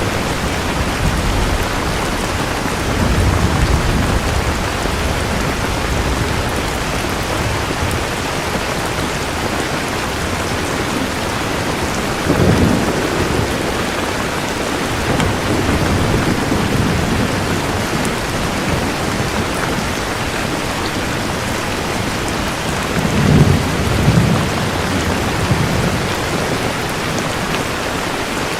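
Steady rain falling, with low rolls of thunder rumbling up several times; the strongest comes about three-quarters of the way through.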